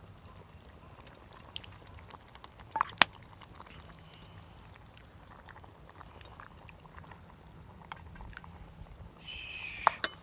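Faint background hiss, likely a pot simmering over the fire, with sharp metal clinks about three seconds in. Near the end there is a short high scraping squeal, then two more clinks.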